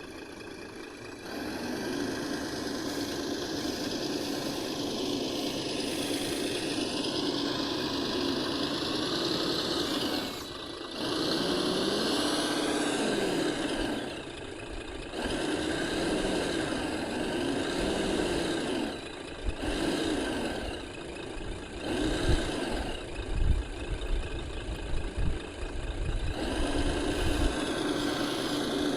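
Radio-controlled scale construction machines working: motor and gear whine that rises and falls with each move. From about two-thirds of the way through, a run of sharp knocks and low thuds is mixed in.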